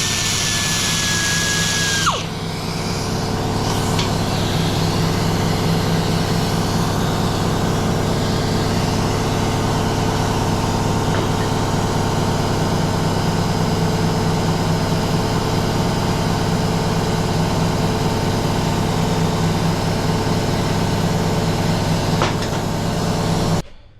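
A power tool's motor runs steadily and is switched off abruptly near the end. A higher whine with hiss runs alongside it for the first two seconds, then cuts out.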